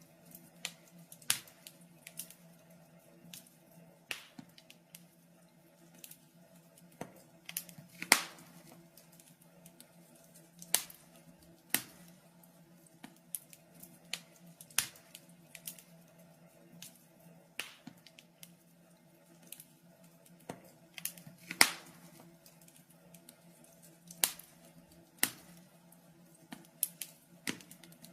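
Wood fire crackling in a fireplace: irregular sharp pops and snaps, a few of them much louder, over a faint steady hum.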